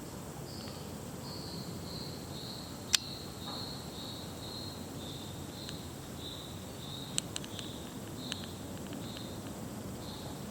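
A cricket chirping steadily, about two short high chirps a second, over a faint constant high hiss and outdoor background. A sharp click about three seconds in, and a couple of fainter ones later, cut briefly across it.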